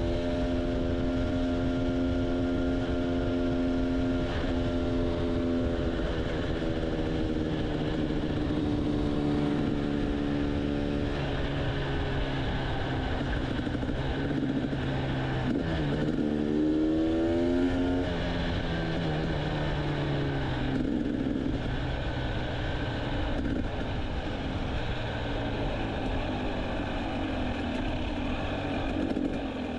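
Motorcycle engine running under way, a steady engine note over a constant rushing noise. About halfway through, the note drops and then climbs again sharply as the bike slows and accelerates.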